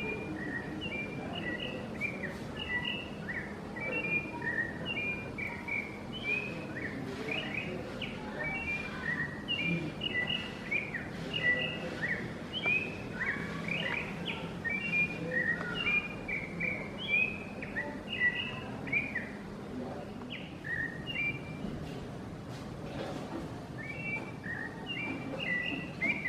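Chonte singing: a long, dense run of short, varied whistled notes that pauses about twenty seconds in and starts again near the end, over a faint steady low hum.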